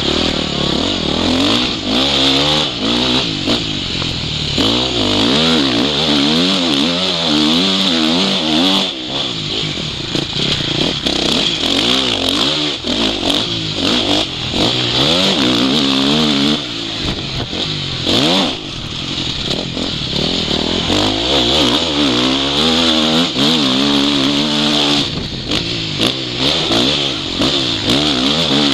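Motocross bike engine revving hard and dropping back over and over as the throttle is opened and shut around the track, heard from the rider's goggle-mounted microphone. It eases off briefly about two-thirds of the way through.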